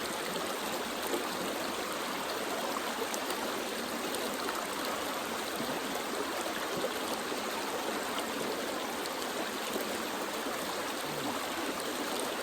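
Creek water flowing over rocks, a steady rushing with a few faint clicks.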